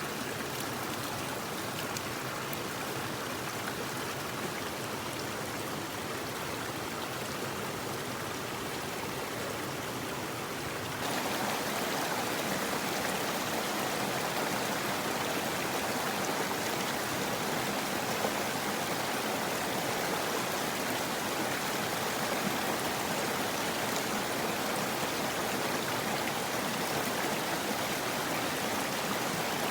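Steady rush of flowing water, like a stream running over rocks; it jumps louder and brighter about eleven seconds in.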